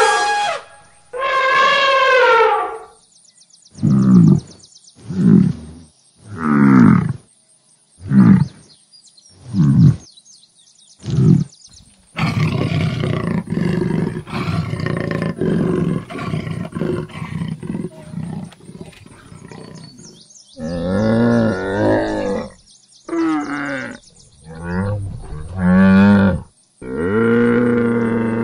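Animal calls one after another: an elephant trumpeting twice, then six short calls about a second apart, each falling in pitch, then a long rough pulsing rumble, and a camel's low groaning calls near the end.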